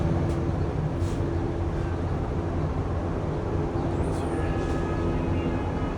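A steady low mechanical hum with several fixed hum tones, with a few faint clicks.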